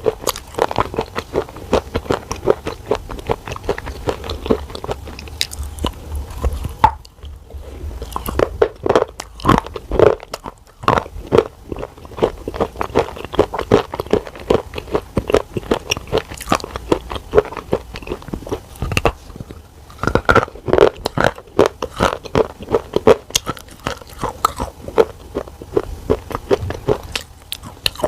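A person biting and chewing a hard, brittle black cube: close, dense crunching, several sharp crunches a second, with short lulls about seven and ten seconds in.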